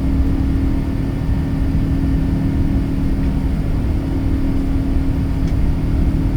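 Steady cabin noise of an Airbus A380 in flight, heard inside the passenger cabin: a deep, even rumble of engines and airflow with a steady low hum.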